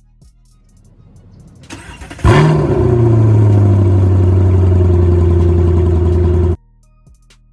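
Chevrolet Camaro SS's 6.2-litre V8 starting: a brief crank, then it catches with a quick rev flare and settles into a loud, steady idle that cuts off suddenly after about four seconds. Faint background music with a light beat plays before and after.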